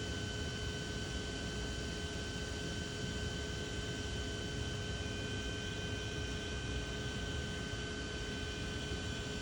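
Steady machine hum and hiss with a few constant high whining tones, unchanging throughout.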